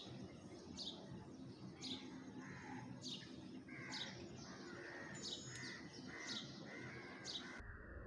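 Small birds chirping: short, high chirps about once a second, with lower calls in between.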